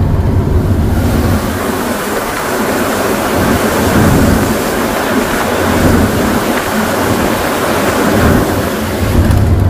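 Heavy rain pouring, a dense steady hiss. A truck's diesel engine runs low underneath, stronger in the first second and again near the end.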